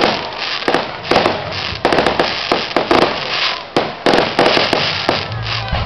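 Fireworks going off: a dense, rapid string of sharp bangs and crackles over a continuous hiss.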